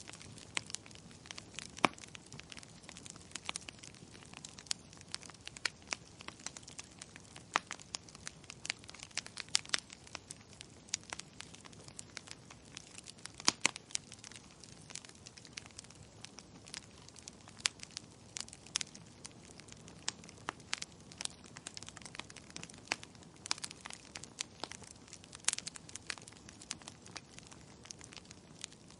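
Wood fire crackling in a fireplace: irregular sharp pops and snaps, several a second, over a soft steady hiss of burning logs.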